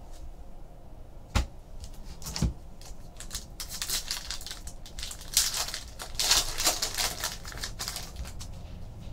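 Trading card pack wrappers crinkling and tearing as cards are handled, with two sharp taps in the first few seconds, then a spell of dense crackling.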